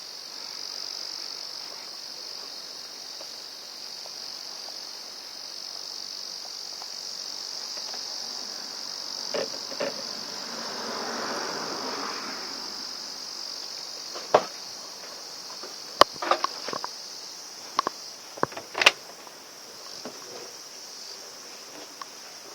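Steady high-pitched insect chirring, with a soft rustle near the middle and several sharp clicks and knocks from brush cutter parts being handled during reassembly, the loudest in the second half.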